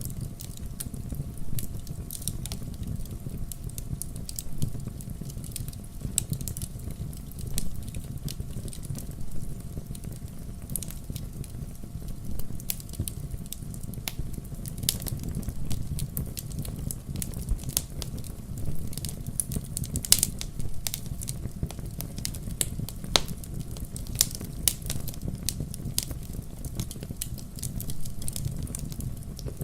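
Wood fire burning in a fireplace: a steady low rumble of flames with frequent irregular crackles and pops from the burning logs, the sharpest pop about twenty seconds in.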